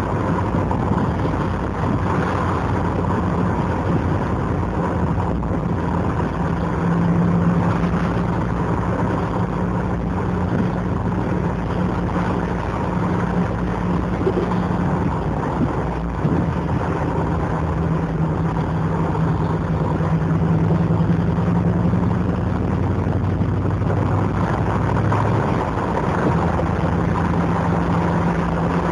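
TVR Wedge's Rover V8 engine burbling at low revs while the car is driven, heard from inside the cabin. The low engine note stays steady, its pitch shifting a few times as the car changes speed.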